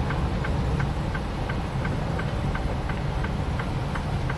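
Semi-truck running at slow speed in snow with tire chains on, heard from inside the cab: a steady low engine and road rumble, with an even ticking about three times a second.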